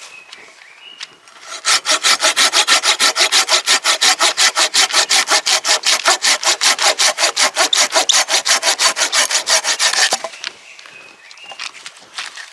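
Hand saw cutting through wood in quick, even back-and-forth strokes for about eight seconds, starting shortly after the beginning and stopping a couple of seconds before the end.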